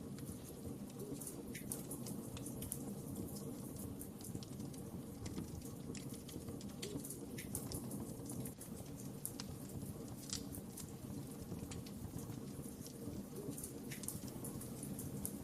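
Wood fire burning in a fireplace, with a steady low rush of flame and many small crackles and pops scattered throughout.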